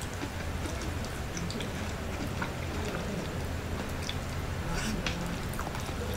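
Close-up eating sounds of a person eating fish and rice with bare hands: chewing and small wet mouth clicks and smacks, with fingers pulling at the fish. A steady low hum runs underneath.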